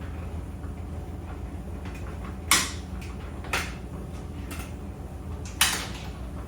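Tumble dryer running with a steady low hum from the turning drum, and a few sharp knocks about a second apart as the tumbling load strikes the drum, the loudest about two and a half and five and a half seconds in.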